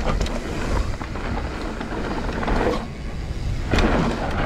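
Mountain bike riding down a dry dirt trail: steady tyre noise over dirt with scattered knocks and rattles from the bike, over a low rumble of wind on the microphone.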